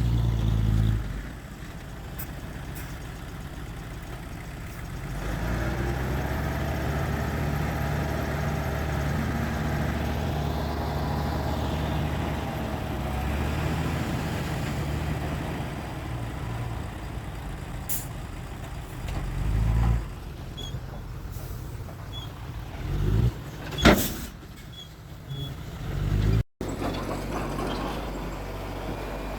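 Heavy diesel engines of dump trucks and a bulldozer at work: a steady low engine drone through much of the stretch, rising in brief louder bursts at the start and around 20 seconds in. A single sharp, loud clank comes about 24 seconds in.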